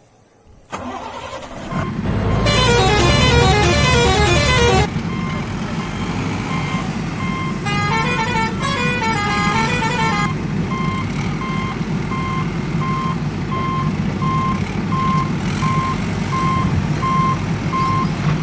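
A vehicle engine starts running with a steady low rumble, and a short electronic jingle plays twice over it. From about halfway in, a reversing alarm beeps steadily, a little more than once a second.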